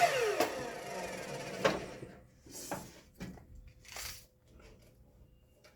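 A power saw winding down after a cut, its pitch falling. Then a few sharp clicks and knocks of the cut fence-picket wood being handled.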